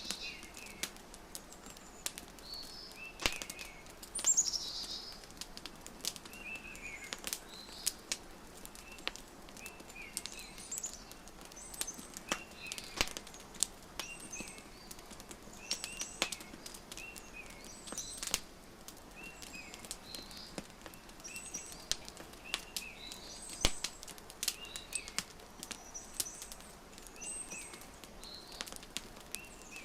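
Wood fire crackling with frequent sharp pops, mixed with small birds chirping in short repeated calls.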